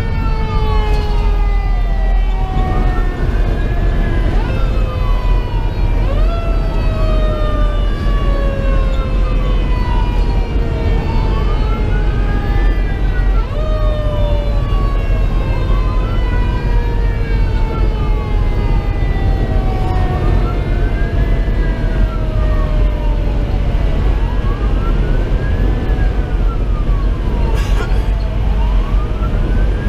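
Fire engine sirens: an electronic siren wailing up and down about every four seconds, while a Federal Q2B mechanical siren winds slowly down in pitch over a heavy steady rumble from the truck's Detroit Series 60 diesel and the road.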